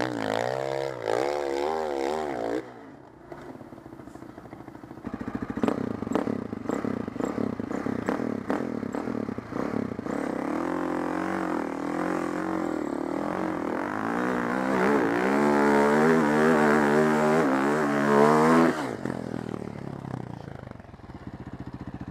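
Four-stroke enduro motorcycle engine revving, the pitch swinging up and down with the throttle, then settling lower and rougher about 3 s in. From about 10 s in it works hard again with rising revs and cuts off suddenly about 19 s in.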